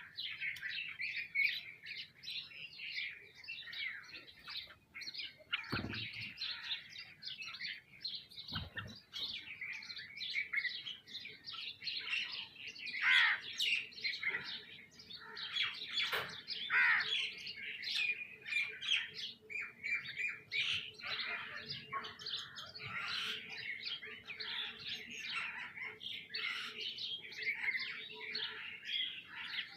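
A flock of sparrows and other small birds chirping all at once, a dense, continuous chatter of overlapping calls. Two soft thumps come in the first third.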